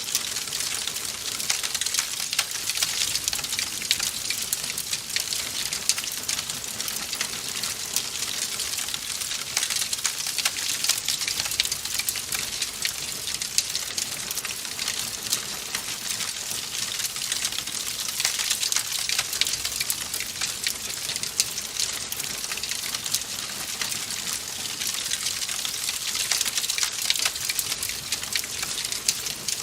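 Wood fire crackling in a fireplace: a steady, dense run of small pops and snaps with no pause.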